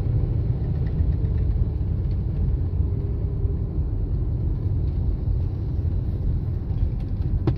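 Steady low rumble of a vehicle on the move through city streets: road and engine noise with no break or change.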